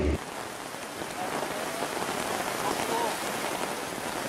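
Heavy rain pouring down in a steady, even hiss during a rain-and-wind storm.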